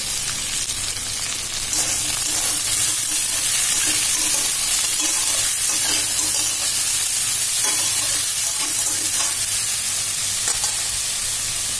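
Chopped bottle gourd and chickpeas sizzling steadily in hot mustard oil in a steel kadai, stirred with a metal spatula that scrapes and taps the pan now and then.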